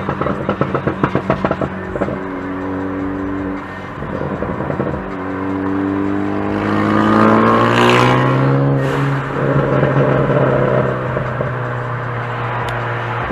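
Minibike engine running, choppy at first. Around the middle it revs, its pitch climbing steadily for a few seconds, then it holds at a steady higher note.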